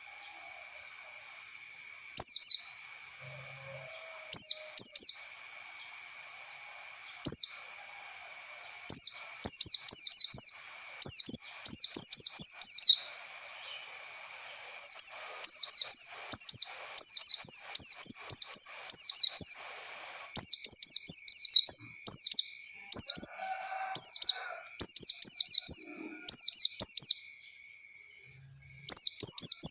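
White-eye (pleci) singing a lure song for training young birds: repeated quick bursts of high, sharp, down-slurred chirps, phrase after phrase with short pauses between.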